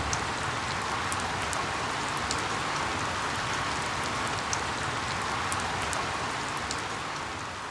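Steady rain falling: an even hiss with scattered sharp drop ticks, beginning to fade out near the end.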